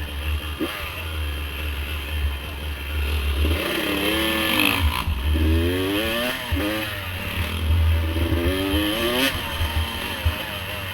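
Dirt bike engine revving up and dropping back several times while riding, each rise in pitch lasting about a second, over a steady low rumble.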